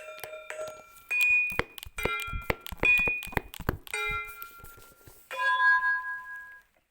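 Tuned steel drum struck by hand, playing a slow melody of ringing notes. A quick run of strikes comes in the middle, and a last note is left to ring out and fade near the end.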